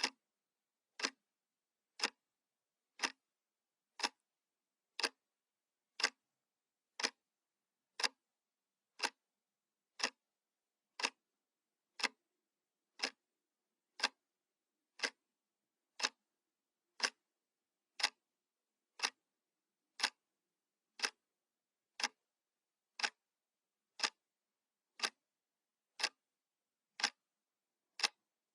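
Analog clock ticking, one sharp tick every second at an even pace.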